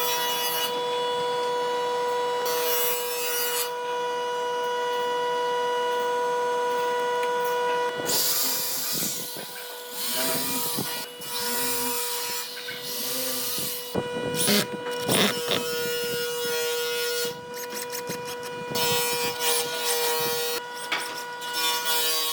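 An electric power tool running with a steady high whine. About eight seconds in it starts working the wood: rasping noise, with the whine wavering and dipping under load, and a few abrupt breaks.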